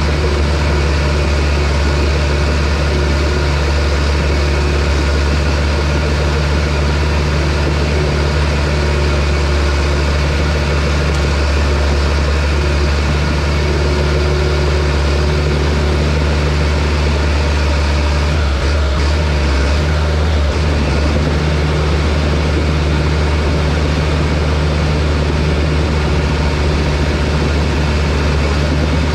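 John Deere bulldozer's diesel engine running steadily and loudly. It has a deep, even drone, with a brief change in its note about two-thirds of the way through.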